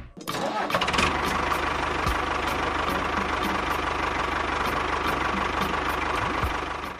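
Tractor engine running steadily at idle, with a regular knock about three times a second; it cuts off abruptly at the end.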